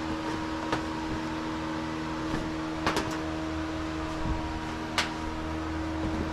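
A steady machine hum, like an electric fan running, with a few sharp clicks of small parts or tools being handled, the loudest about three seconds and five seconds in.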